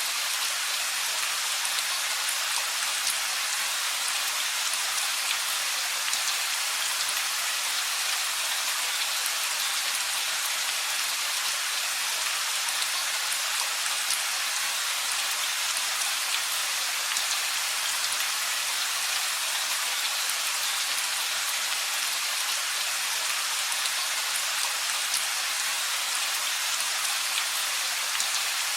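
Steady rain falling, an even hiss of many drops with faint fine patter and no thunder.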